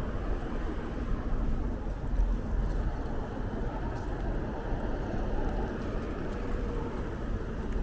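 Steady city traffic noise: a continuous mix of passing vehicles with a heavy low rumble.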